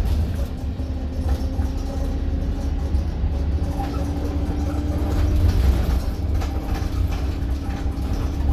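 Bus running along the road, heard from on board: a heavy, steady low rumble with an engine or drivetrain drone that rises a little in pitch about three and a half seconds in, then settles slightly lower near the end.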